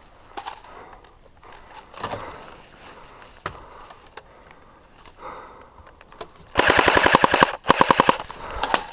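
Airsoft gun firing full-auto: a rapid string of shots lasting about a second, a brief pause, then a shorter burst and a couple of last shots near the end. Before it, only faint scattered knocks and rustling of movement.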